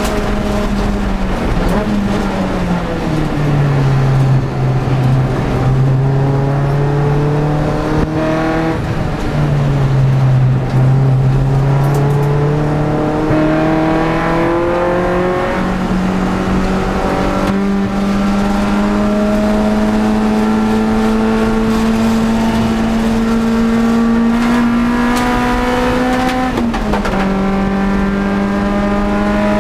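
Honda Prelude's H22 four-cylinder engine running hard at high revs: the revs drop about two seconds in, stay lower for several seconds, then step back up near the middle and climb slowly in a long pull, with a sudden brief dip near the end.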